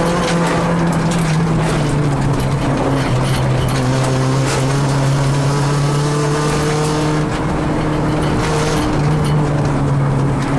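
Car engine heard from inside the cabin while driving on a gravel road, with tyre and gravel noise. The engine note drops a step a couple of seconds in and rises again near the end.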